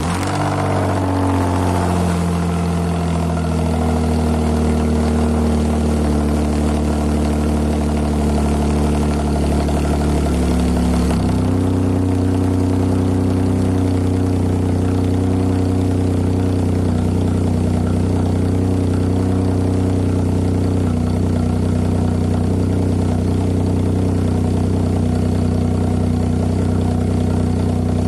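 Nissan March K13's HR12DE 1.2-litre three-cylinder engine idling through an aftermarket racing 'dry' muffler with stock header, resonator and pipe, settling just after being started. The idle note shifts about eleven seconds in, then holds steady.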